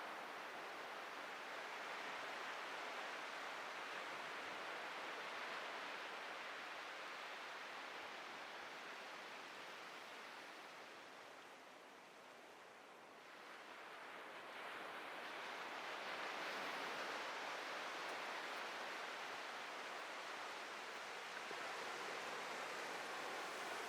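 Atlantic surf washing on a beach, a steady hiss of breaking water. It eases off about halfway through and swells again as the next wave comes in.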